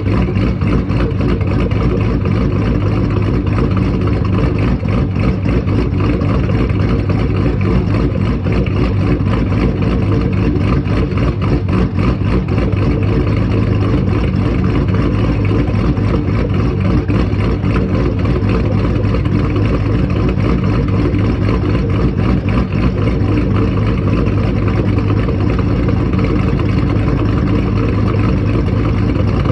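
Twin-turbocharged fifth-generation Chevrolet Camaro SS V8 idling steadily, still warming up after a cold start.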